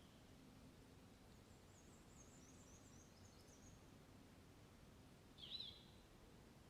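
Faint birdsong in a quiet woodland ambience: a high, thin run of chirps in the first half, then one louder short call about five and a half seconds in.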